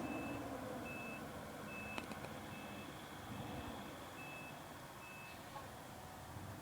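Snowplow truck's reversing alarm beeping, seven evenly spaced beeps about one every 0.8 seconds, growing fainter and stopping a little past five seconds in, over a faint engine hum. A single sharp click about two seconds in.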